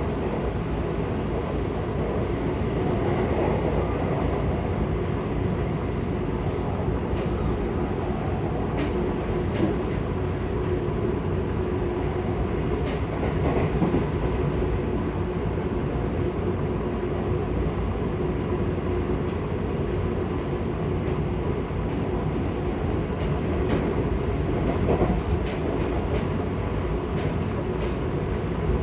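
Seibu 6000 series commuter train running between stations, heard from inside the car: a steady rumble of wheels on rail with a constant hum and occasional clicks.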